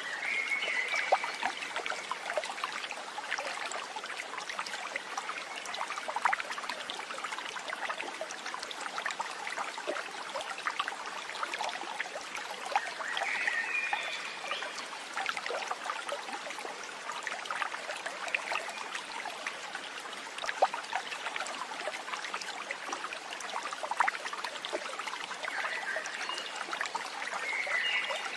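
A stream trickling and babbling in a steady run of water noise full of small splashes. Short high chirping calls come through about a second in, again around the middle, and near the end.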